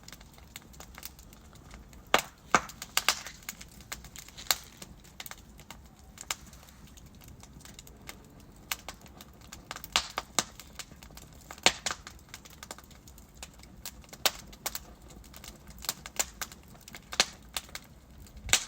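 Wood fire burning in a fireplace: irregular sharp crackles and pops from the burning logs over a low steady hiss.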